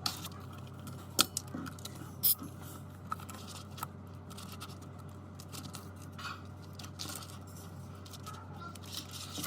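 Sharp clicks and taps of small tools and parts being handled during a tablet screen repair, the loudest two about one and two seconds in, over a steady low hum.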